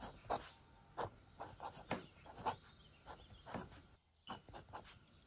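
Gold nib of a Montblanc 22 fountain pen scratching across paper in a series of short strokes as capital letters are written.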